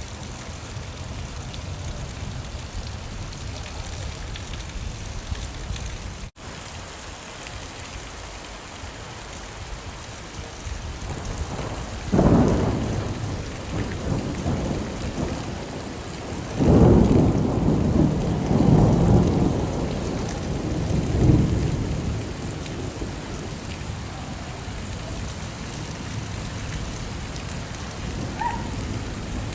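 Steady rain falling, with thunder: one sudden clap about twelve seconds in, then a longer rolling rumble a few seconds later. The rain cuts out for an instant about six seconds in.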